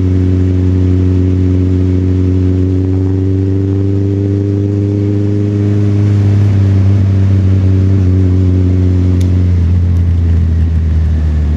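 Motorcycle engine running under way, heard from the rider's seat, its note rising slightly over the first five seconds, then turning rougher and uneven about nine and a half seconds in. A steady hiss of tyres on the wet road runs underneath.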